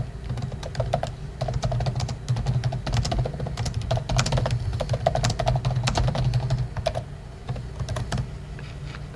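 Typing on a computer keyboard: quick, irregular keystroke clicks that thin out about eight seconds in.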